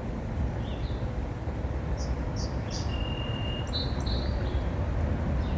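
Small birds chirping, a few short high calls in the middle and one brief held whistle, over a steady low outdoor rumble.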